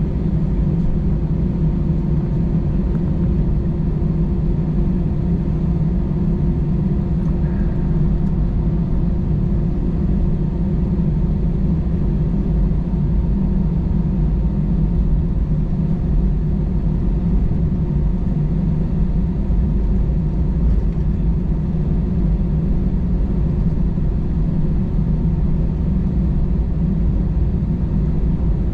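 Steady cabin rumble inside an Airbus A320-216, its CFM56 engines running at low, even power, with a faint steady hum over the deep drone.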